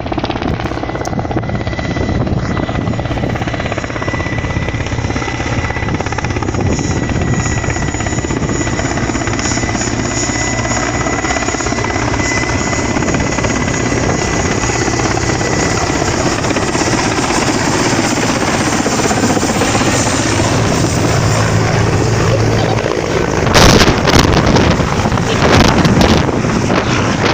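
Mil Mi-8 helicopter running close by: a steady high turbine whine over the rotor's dense low beating. Near the end, loud gusts buffet the microphone.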